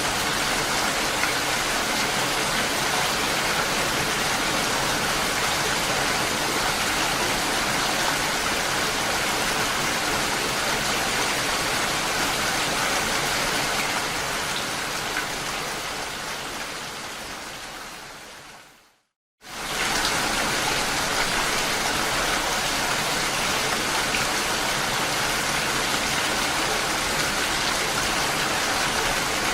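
Steady heavy rain. About two-thirds of the way in it fades away over several seconds to a moment of silence, then comes back suddenly at full strength, the seam where the recording loops.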